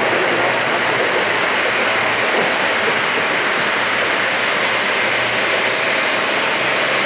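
Lionel model trains running on the layout's track: a steady, even rolling noise with no breaks.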